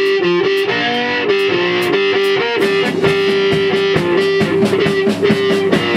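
Rock band playing live in rehearsal: an electric guitar holds and bends long notes over a steady ticking beat.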